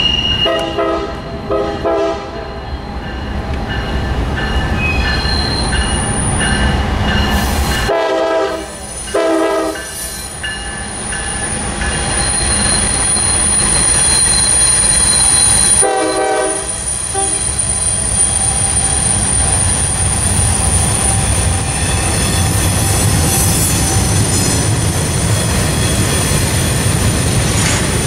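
Train passing close by, rumbling steadily, with a high-pitched steel-wheel squeal on the curve. Its horn sounds in short blasts near the start, twice about eight to ten seconds in, and once more about sixteen seconds in.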